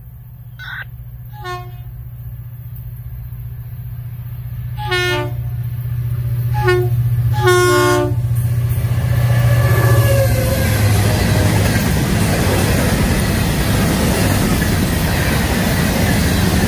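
Florida East Coast Railway diesel freight locomotive approaching with a steady engine drone that grows louder, sounding several short horn blasts in the first eight seconds. From about the halfway point the locomotive is past, and loaded hopper cars roll by with steady loud wheel-on-rail noise.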